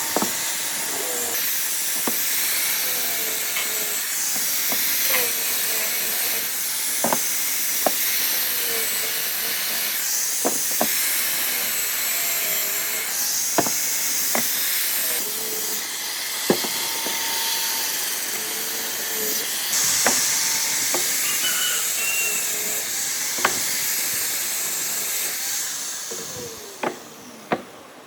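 Steady loud hissing noise with wavering lower tones and scattered sharp clicks; it fades out near the end.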